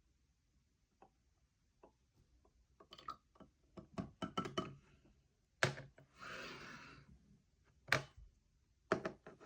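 Knocks and clinks of containers and glassware being handled and set down on a table, several in quick succession around four to five seconds in. A short rush of noise comes about six seconds in.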